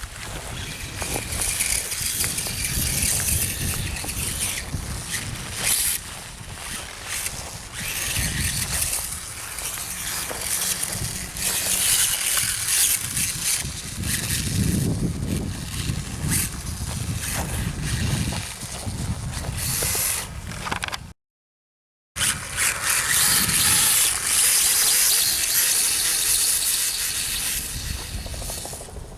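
Radio-controlled dirt bike running over loose dirt, with tyres scrabbling and mechanical scraping noise; the level rises and falls. The sound cuts out completely for about a second two-thirds of the way through.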